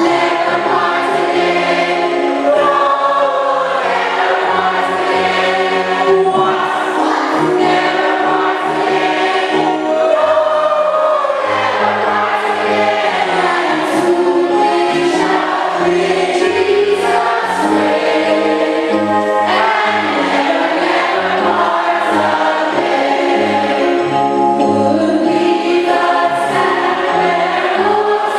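A group of voices singing a hymn in harmony over instrumental accompaniment, with sustained chords changing every second or two.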